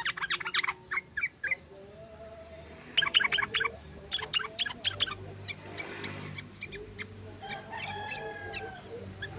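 Yellow-vented bulbuls chattering in quick bursts of rapidly repeated notes, at the start and again about three seconds in, with scattered single calls between. Around eight seconds in, a longer, lower drawn-out call sounds over a low steady hum.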